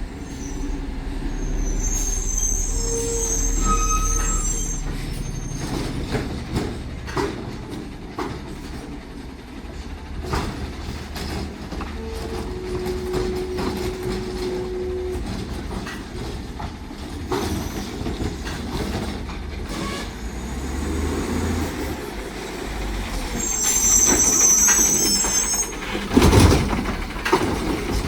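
Automated side-loader garbage truck at work: engine running with high-pitched squeals twice, about two seconds in and again near the end, scattered knocks and clanks, and a loud bang about 26 seconds in.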